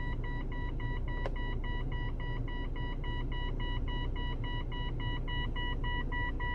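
2024 Volvo XC60's warning chime beeping over and over at about two beeps a second, with a low steady rumble underneath and a single click about a second in.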